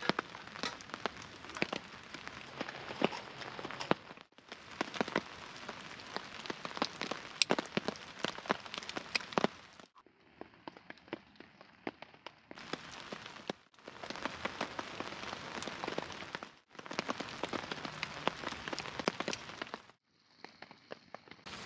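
Steady rain falling, with many sharp individual drop impacts, heard in several short stretches cut off by brief silent breaks.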